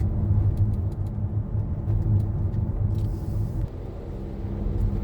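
Car engine and road noise heard from inside a moving car: a steady low rumble with a constant hum. A few faint clicks come in the first half, and a short hiss about three seconds in, after which the rumble dips slightly.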